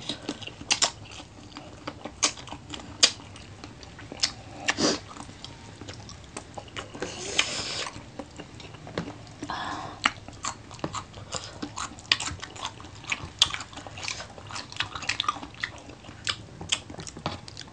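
People chewing and biting fried adobo chicken feet, sucking the meat off them: irregular crunches and wet mouth clicks, with a couple of longer noisy mouth sounds around the middle.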